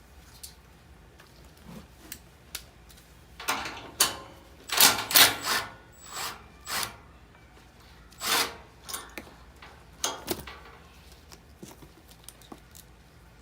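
Irregular clicks, knocks and scraping rustles from hands working on furnace blower parts, loudest in a cluster a few seconds in and again about eight and ten seconds in.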